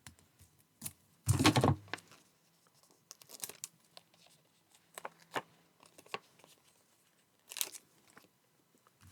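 Paper and card being handled on a craft table: scattered crinkles, light taps and clicks, with one louder rustle and bump about a second and a half in and a short high rustle near the end.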